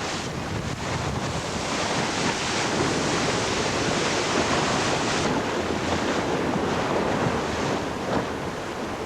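Water rushing along a yacht's hull and the wind of a strong breeze as the boat sails fast at about 15 knots, with wind buffeting the microphone.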